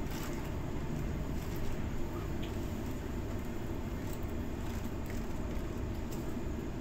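Inside the carriage of a moving Sydney Trains electric passenger train: a steady low rumble of the train running along the track, with a few faint clicks.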